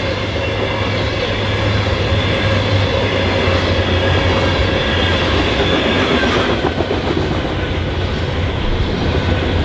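Norfolk Southern freight train cars rolling past: a steady, loud rumble with thin steady high squealing tones held above it.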